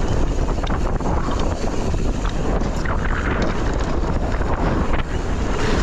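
Wind buffeting the microphone of a mountain bike rider's camera at speed, a steady rumble, with tyres on dirt and scattered rattling clicks from the bike.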